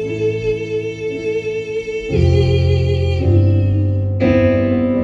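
Piano playing sustained chords in a slow ballad, the chord changing about two, three and four seconds in.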